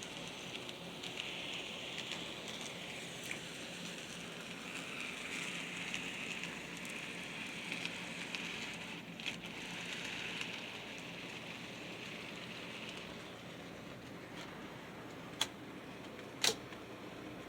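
Model trains rolling on the layout's track: a faint, steady rattling hiss that swells and fades as they go round. Two sharp clicks come near the end.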